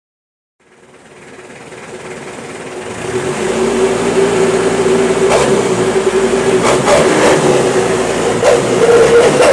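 Mitsubishi L300 engine running through a homemade wolf exhaust, a steady whistling tone riding over the engine sound. It fades in from silence over the first few seconds, with a few short blips later on.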